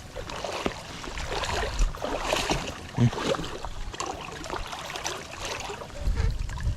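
Water sloshing and trickling with small irregular splashes, as someone moves through shallow flood water and handles a fishing net.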